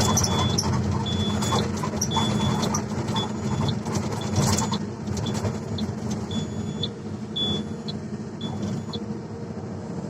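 Heavy earthmoving machinery's diesel engine running steadily. A high-pitched warning beeper sounds on and off in short beeps, with a few sharp metallic knocks.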